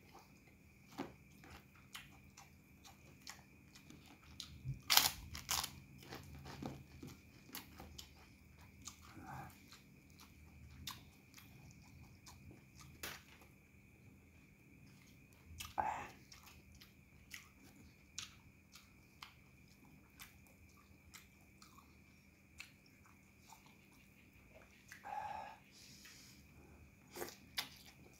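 A man chewing mouthfuls of rice, goat curry and crispy dry noodles eaten by hand, with scattered small crunches and mouth clicks; the loudest crunch comes about five seconds in. A faint steady hum runs underneath.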